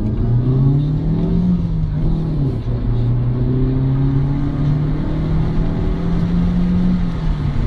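A car's engine heard from inside the cabin while accelerating. Its pitch climbs, drops at a gear change about two and a half seconds in, climbs slowly again through the next gear and falls once more near the end, over a low road rumble.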